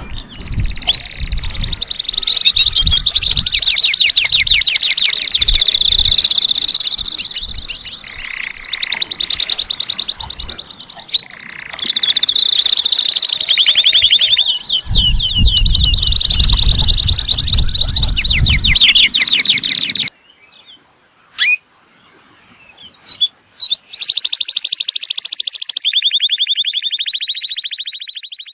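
Domestic canary singing, with long runs of rapid trills that change speed from phrase to phrase and low thuds underneath. It breaks off about two-thirds of the way in, gives a few single chirps, then resumes with a fast trill that drops into a lower, even one.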